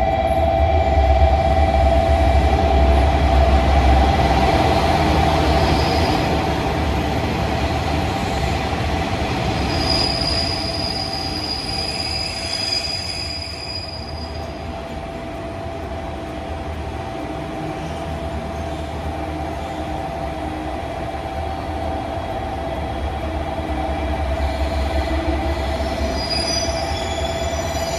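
Train moving through a station: a low rumble with a steady high-pitched tone over it, loudest in the first few seconds, easing around the middle and building again near the end.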